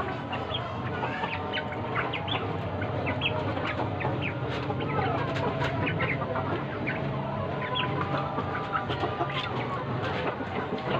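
A flock of Aseel chickens clucking and peeping, with many short high calls overlapping.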